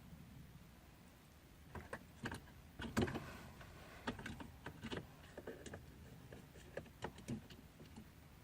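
Irregular clicks and knocks from work on a car door's central-locking mechanism, with a slightly longer event about three seconds in.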